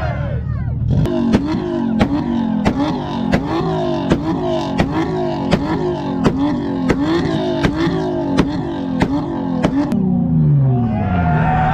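An engine revved hard and held near its limit, with a sharp pop about three times a second and the pitch climbing again after each. Near the end the throttle is let off and the revs fall away.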